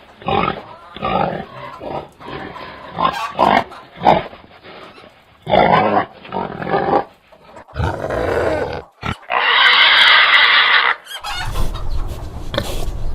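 Domestic pigs grunting in a run of short calls, then one loud squeal lasting about two seconds a little past the middle.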